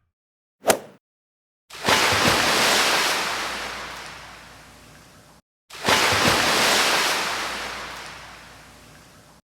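A brief sharp click, then two long rushing hisses like surf or a gust. Each starts suddenly and fades away over about four seconds.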